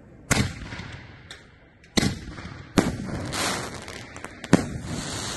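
Firework shells from a 7-inch diesel shell rack going off: four sharp booms, the first about a third of a second in and the last near the end, with a crackling hiss from the bursting stars after the third.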